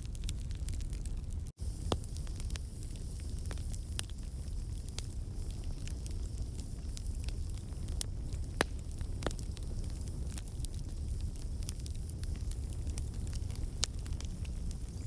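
Wood campfire burning: a steady low rumble of flame with scattered sharp crackles and pops from the logs. The sound cuts out for a split second about a second and a half in.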